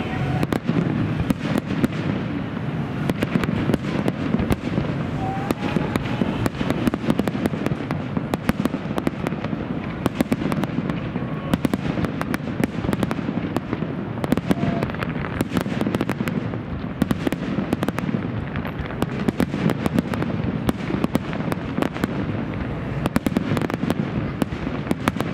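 Fireworks display: aerial shells bursting in a rapid, continuous barrage of bangs, many each second, over a constant low rumble.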